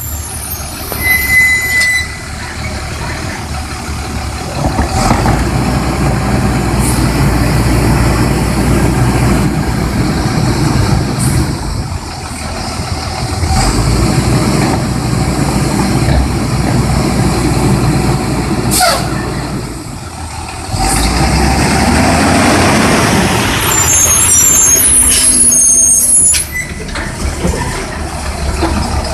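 Garbage truck's diesel engine running and revving, with hisses of its air brakes.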